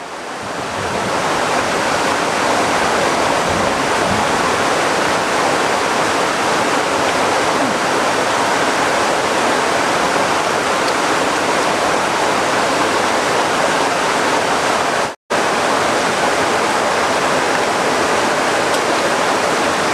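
Heavy rain falling in a steady, loud downpour. The sound drops out for a split second about fifteen seconds in.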